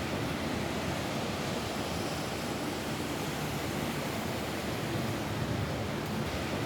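Steady rain falling on a roof, an even hiss with no let-up.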